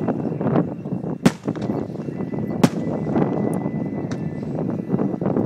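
Aerial fireworks shells bursting: two sharp, loud reports about 1.3 s and 2.7 s in, with many fainter pops and a steady din between them.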